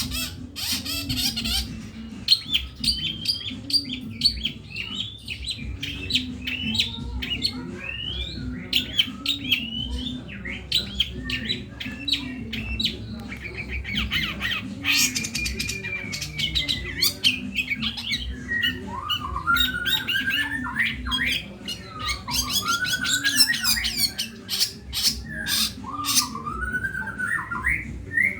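Long-tailed shrike singing a loud, varied song of rapid chirps, harsh rattles and rising and falling whistles, filled with mimicry of other birds such as the grey-cheeked bulbul, house sparrow and fighting lovebirds. A low steady hum sits underneath.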